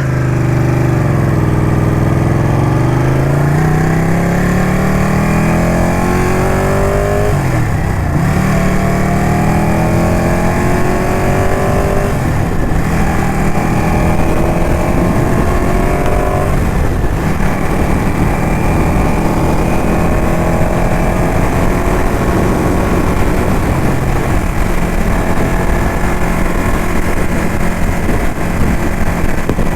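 Ducati motorcycle engine easing off, then accelerating through the gears: the pitch climbs and drops back at upshifts about 7, 12 and 17 seconds in, then the bike runs at a steady cruise.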